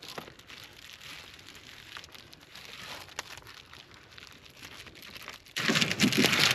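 Soft crinkling and rustling of material being handled, with small scattered clicks. About five and a half seconds in, the loud, steady hiss of heavy rain on a surface cuts in suddenly.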